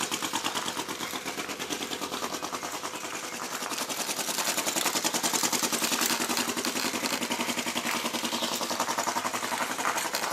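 Model flame-licker (flame-gulper) engine on a toy tractor running, a rapid, even ticking beat that swells and fades a little.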